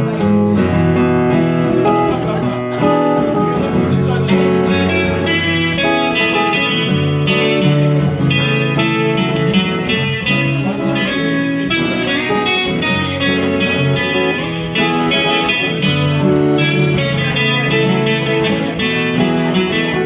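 Instrumental break in a live song: strummed acoustic guitar with other instruments, no vocals.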